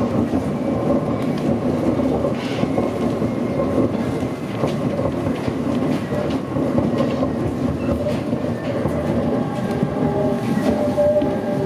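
Electric local train running, heard from inside the front car behind the driver's cab: a steady rumble with wheels clicking over rail joints and faint steady motor tones.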